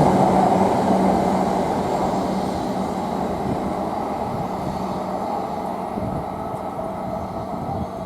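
A Tohoku Shinkansen train running along the platform, a steady rumble with a low hum that dies away gradually.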